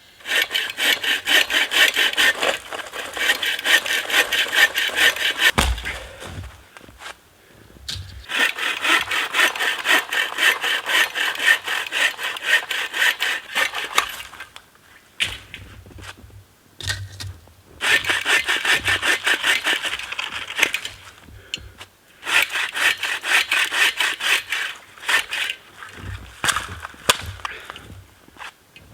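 Hand saw cutting through a dead tree for firewood, in four bouts of rapid back-and-forth strokes with short pauses between them.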